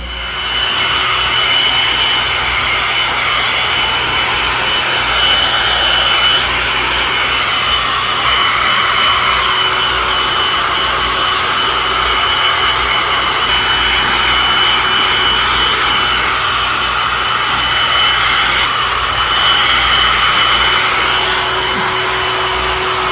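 Electric blower-type appliance motor switching on and running steadily, a loud airy rush with a high whine over it.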